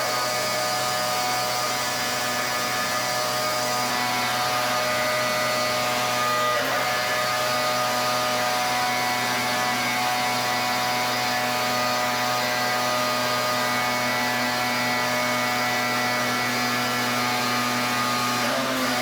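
Pressure washer spraying: a steady machine hum of several tones over the hiss of the high-pressure water jet. The pitch dips briefly about six and a half seconds in and again near the end.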